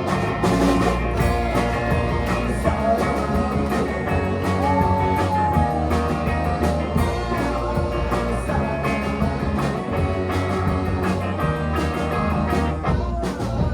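Rock band playing a psychedelic-rock song: guitars over bass and regular drum hits.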